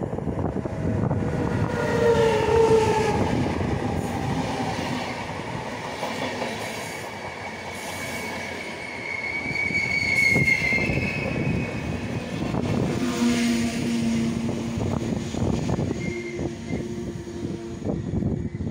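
Electric locomotive hauling a passenger train past at speed. A falling whine comes as the locomotive goes by, then the steady rumble and clatter of the coaches rolling past.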